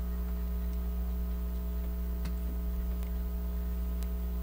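Steady electrical mains hum with three faint sharp clicks, one about halfway through, one a little later and one near the end.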